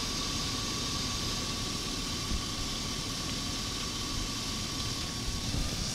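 2000 Chevy Suburban's Vortec V8 idling steadily with the A/C switched on, heard from under the open hood: a constant hiss and low rumble with a thin steady whine.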